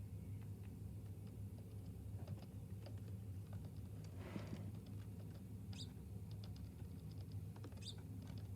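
Small birds at a seed feeder: faint scattered taps and ticks of pecking, a brief rushing sound about four seconds in, and two short high chirps later on, over a steady low hum.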